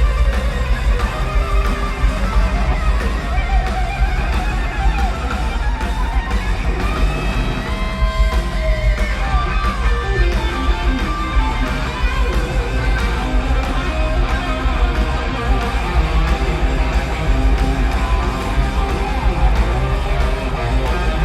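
Live rock band playing loud, with electric guitar to the fore over bass and drums; the guitar notes slide and bend in pitch.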